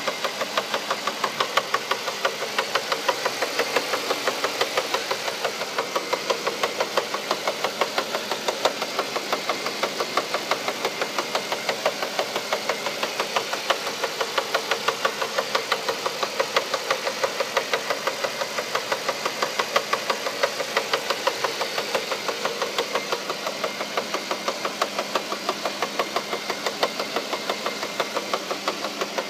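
Mercedes-Benz E420's 4.2-litre V8 engine running steadily with a regular, evenly spaced knock.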